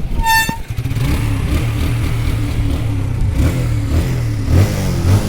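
A vehicle horn gives one short beep, then a motor vehicle's engine runs with a steady low hum, rising and falling slightly.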